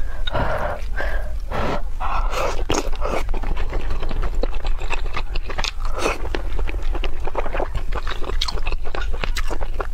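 Close-miked wet chewing and mouth sounds of a person eating food from soup with chopsticks: many small clicks and lip smacks, with a few short, noisier stretches. A steady low hum runs underneath.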